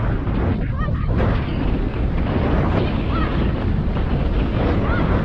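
Loud, steady storm noise of strong wind buffeting the microphone together with rushing water, with a few short high calls or cries heard faintly over it.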